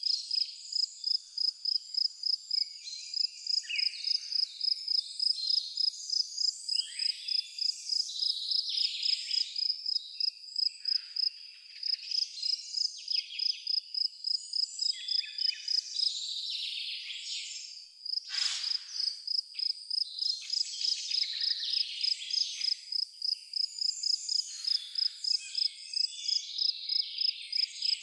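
A cricket chirping in an even rhythm, about three chirps a second, stopping briefly about two-thirds of the way through. Several birds sing and call over it.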